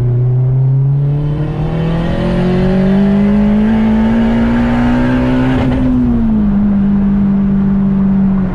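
Turbocharged Honda K20 four-cylinder of an 8th-gen Civic Si under full throttle in a tuning pull, heard from inside the cabin. The revs climb steadily for about five and a half seconds with a faint high turbo whistle rising alongside. The engine then eases off and holds, and drops in pitch with a gear change near the end.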